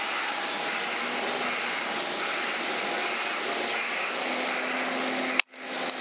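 A steady mechanical drone, even and noisy with a few faint whining tones, broken by a sharp click near the end.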